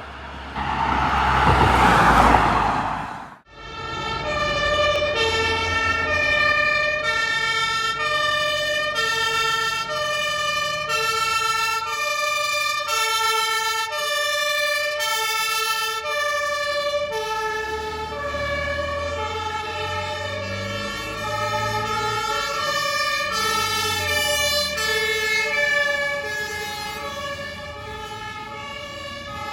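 A loud rushing noise that cuts off abruptly about three seconds in, then German two-tone emergency vehicle sirens (Martinshorn) switching back and forth between two pitches, with more than one siren sounding out of step. A truck engine rumbles underneath, louder about two-thirds of the way through.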